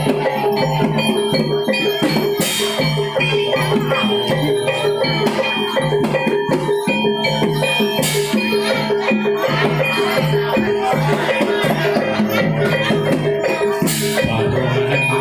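Javanese gamelan ensemble playing barongan accompaniment: metallophones and gongs repeat a steady pattern over drums, with a crash about every five and a half seconds.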